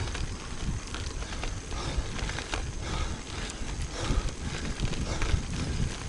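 Riding noise of a road bike picked up by a bike-mounted action camera: wind rumbling on the microphone and tyres on the road, with frequent irregular clicks and rattles from the bike over the surface.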